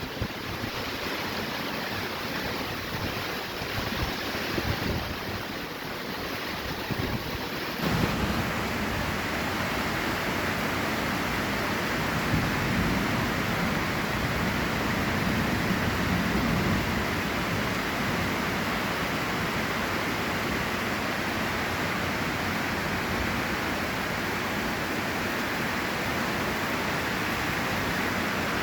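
Heavy rain pouring steadily, a dense even hiss. About eight seconds in, the sound changes abruptly to a fuller, more even downpour.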